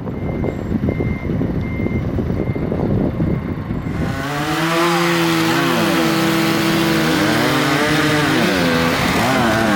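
Crackling, rustling noise, then from about four seconds in two small engines running fast, their pitches rising and falling and crossing, typical of chainsaws cutting up fallen trees.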